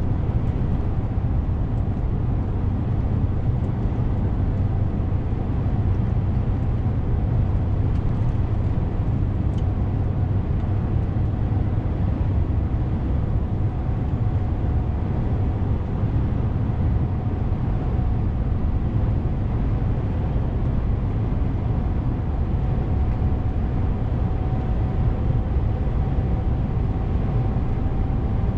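DAF CF 450 truck driving along with its diesel engine running in a steady low drone and constant road noise, plus a faint whine that grows a little stronger in the last few seconds.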